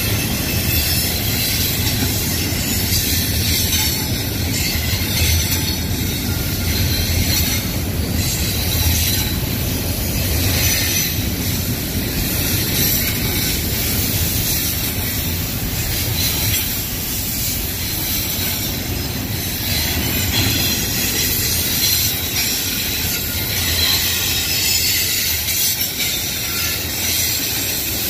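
Double-stack intermodal freight cars rolling past: a steady rumble and rushing noise of steel wheels running on the rails.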